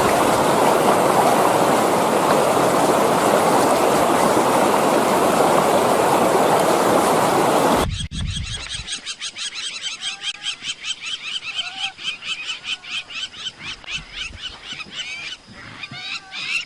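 A loud, steady rushing noise that cuts off suddenly about halfway through. It is followed by a fast rhythmic chorus of repeated high-pitched animal calls, about four a second.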